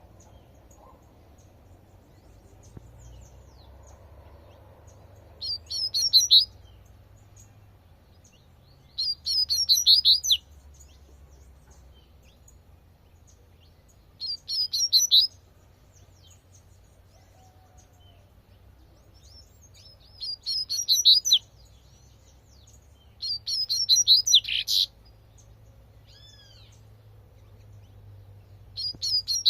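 Double-collared seedeater (coleirinho) singing its 'tui tui' song: five short phrases of quick high notes, each about a second long, spaced a few seconds apart.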